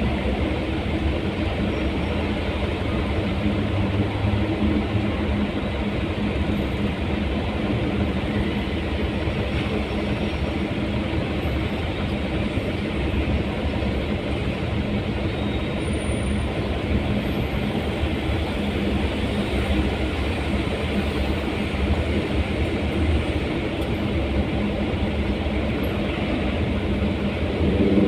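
Steady drone of a vehicle in motion: engine hum and road noise with no sudden events, rising slightly in level near the end.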